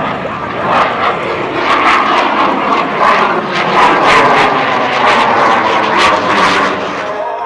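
F/A-18 Hornet jet passing overhead, its twin engines growing louder to a peak about four seconds in, with a crackling rasp, then easing off near the end.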